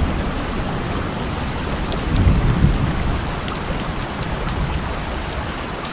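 Thunderstorm: steady rain falling, with low rolling thunder that swells about two seconds in.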